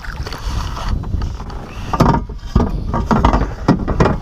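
Wind rumbling on the microphone, with a run of sharp knocks and clatter on a kayak from about halfway through.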